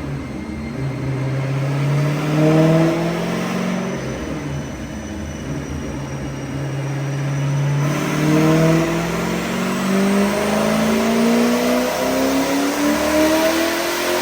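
Twin-turbocharged 2006 Corvette Z06's V8 revving under load on a chassis dyno during a low-boost pull. Its pitch climbs over the first few seconds, holds roughly level, then climbs steadily again from about eight seconds in, with a thin high whine above the engine note.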